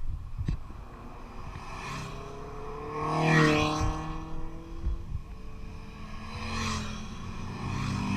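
Motor vehicle engine running, swelling louder about three seconds in, then sliding down in pitch as it fades.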